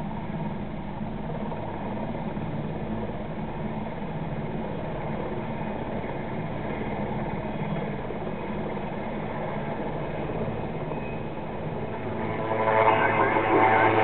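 Steady low engine drone. A louder, busier sound joins it near the end.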